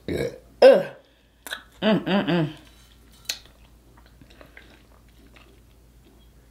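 A person eating crab meat: two short voiced murmurs from the mouth, a sharp click a little after three seconds, then soft, faint chewing.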